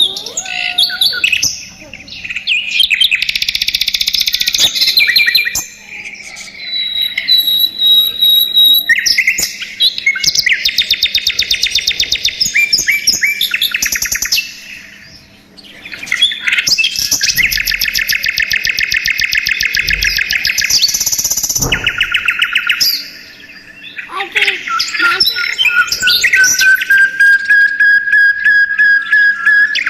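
Budgerigars chattering and warbling: bursts of rapid chirping trills with short pauses between them, and a long, slightly rising whistle near the end.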